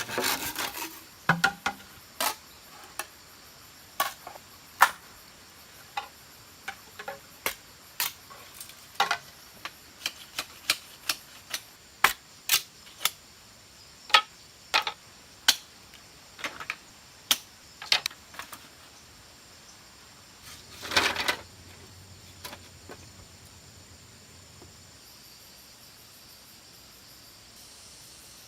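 Irregular sharp clicks and taps, roughly one or two a second, with a short denser cluster about three-quarters of the way through, over a faint steady insect chirring.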